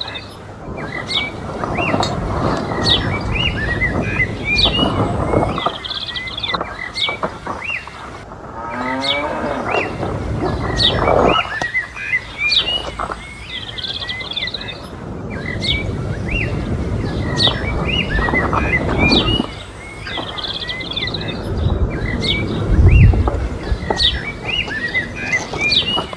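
Small birds chirping over and over, short high calls in quick succession, over a rough, uneven noise lower down that swells and fades several times.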